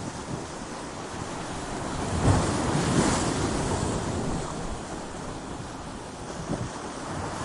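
Ocean waves breaking against coastal rocks: a continuous rush of surf that swells into a loud wave about two seconds in, then eases off before building again near the end.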